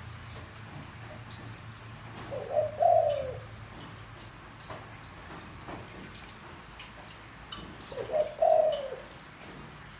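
Spotted dove cooing: two deep, roughly one-second coo phrases about five and a half seconds apart. This is the kind of call used to rouse a decoy dove into cooing.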